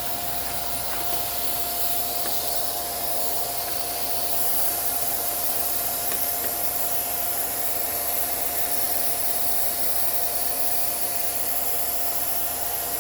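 Small vacuum cleaner running steadily with a constant whine, sucking accumulated dust out of a dirty sewing machine.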